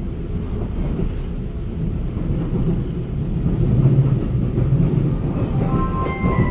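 Running noise of a Taiwan Railway EMU900 electric multiple unit under way, a steady low rumble of wheels on track heard from inside the car, briefly louder about four seconds in. A pair of steady tones comes in near the end.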